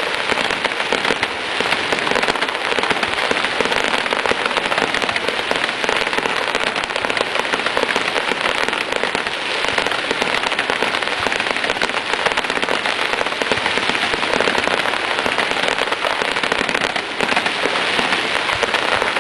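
Fireworks finale: a dense, unbroken barrage of crackling, countless small bangs running together with no pause.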